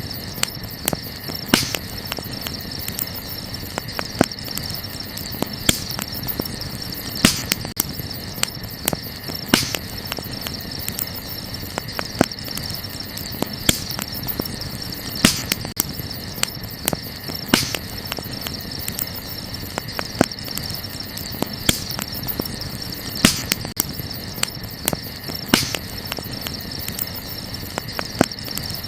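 Wood fire crackling, with frequent small snaps and a louder sharp pop every second or two, over a steady high chirring of night insects.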